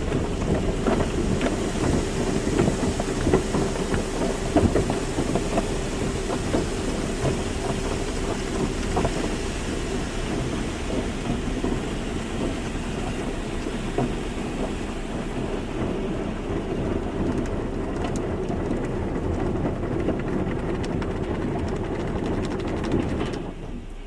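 Car wash running: a dense wash of spray and machinery over a low rumble with a faint steady hum, with scattered knocks in the first few seconds. It drops sharply to a quieter level about a second before the end.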